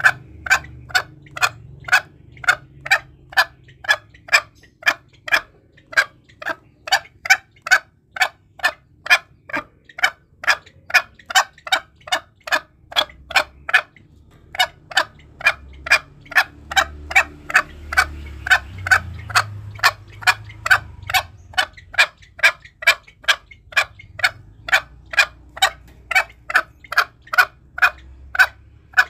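Green junglefowl calling: a long, even run of short, sharp clucking notes, about two and a half a second, with one short break about halfway through.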